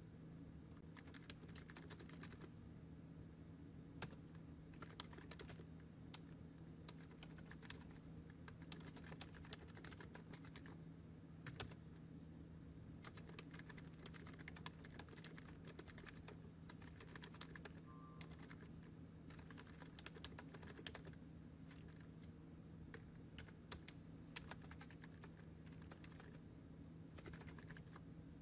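Faint computer keyboard typing in irregular bursts of clicks, over a steady low electrical hum.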